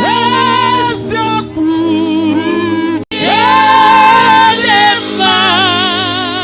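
Gospel worship singing: a voice holds long, wavering notes over a steady sustained keyboard accompaniment, with a brief cut-out in the sound about three seconds in.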